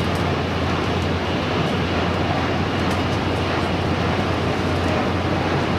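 Running noise of an N700A Shinkansen heard inside the passenger car: a steady, even rush with a low hum underneath.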